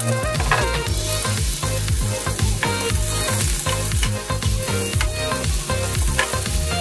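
Garlic and onion sizzling in hot oil in a frying pan as they are sautéed and stirred with a metal spatula, with background music.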